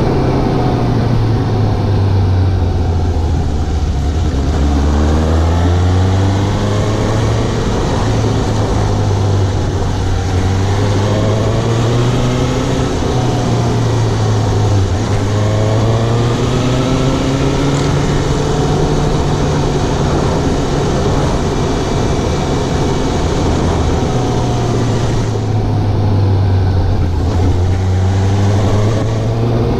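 Suzuki GSX750 motorcycle engine heard from the rider's position, pulling through the gears: its pitch rises repeatedly and drops back at each shift, then it settles to a steadier run near the end.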